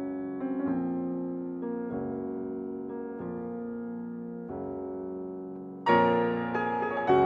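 Background music: slow piano chords held and changing about every second or so, with a louder, brighter chord near the end.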